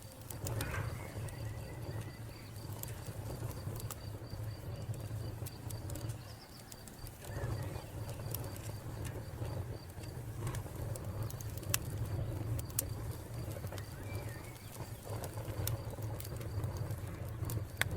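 Wood fire crackling, with scattered sharp pops over a low steady rumble. A cricket chirps in a fast, even pulse through roughly the first half.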